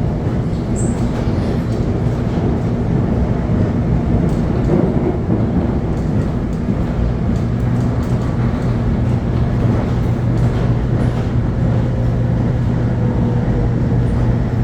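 Subway commuter train running along the rails: a steady, continuous rumble, with a faint motor whine that shifts in pitch in the second half.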